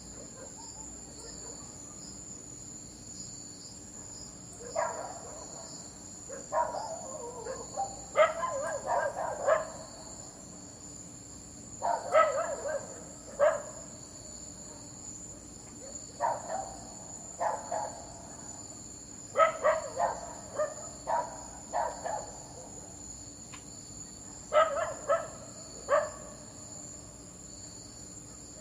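A dog barking in short bunches of two to five barks, with pauses of a few seconds between bunches. A steady high insect-like drone runs behind the barks.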